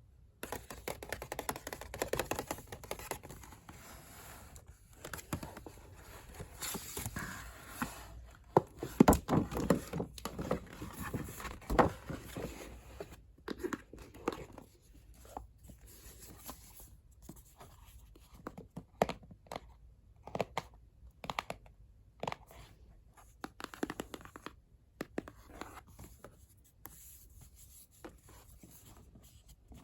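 Packaging being unpacked by hand: paper and wrapping scraping, crinkling and tearing, with scattered short knocks and clicks. It is busiest in the first half, then thins to sparse taps.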